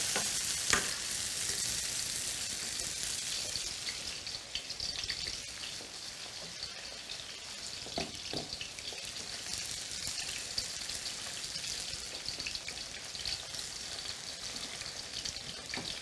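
Zucchini slices frying in hot oil in a stainless steel pan: a steady sizzle, louder for the first few seconds, then with scattered crackling pops. A few sharp knocks of a utensil against a pan come near the start and about halfway through.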